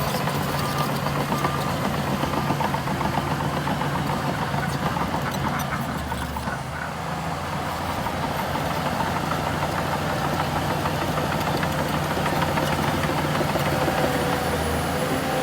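Heavy diesel engine of earthmoving machinery running steadily, easing off slightly about six or seven seconds in.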